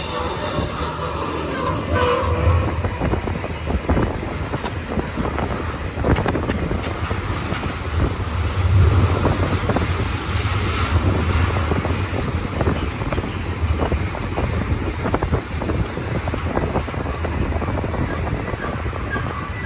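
Long intermodal freight train rolling past close by: a steady deep rumble of the cars with a continuous run of wheel clicks over the rail. A thin wheel squeal dies away right at the start.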